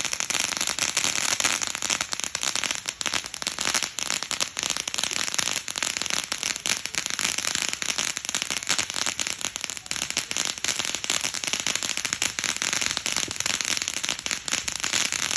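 Fireworks crackling: a dense, rapid, unbroken stream of sharp crackles and pops, loud and steady throughout.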